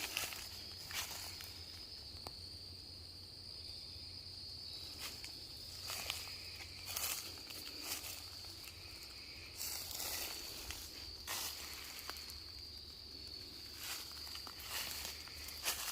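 Footsteps crunching on the forest floor in irregular steps, under a steady high-pitched insect drone.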